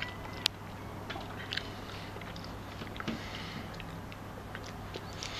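Faint, scattered clicks and taps of a seagull pecking at and snapping up bits of sandwich, with a sharper click about half a second in, over a low steady hum.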